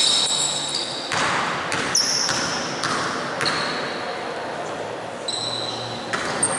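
Basketball bouncing on a hardwood gym floor with several sharp bounces, mixed with short high squeaks of sneakers on the court and a background murmur of voices.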